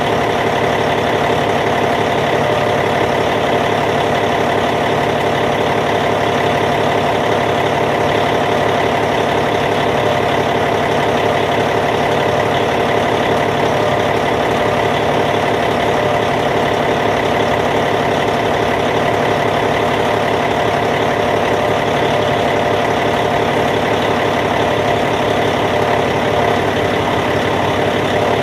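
Caterpillar C15 inline-six diesel engine of a Cat D8T bulldozer idling steadily.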